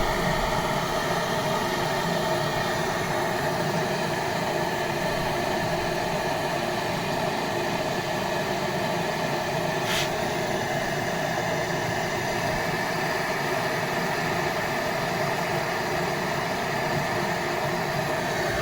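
Steady mechanical hum and whir with a few constant tones, unchanging throughout, with one brief click about ten seconds in.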